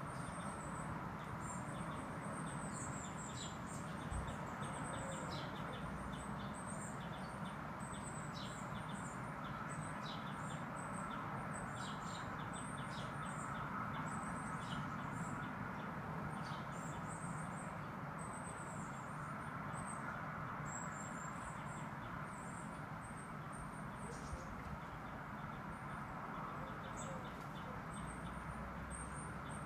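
Small garden birds chirping, many short high calls in quick succession, over a steady background rumble.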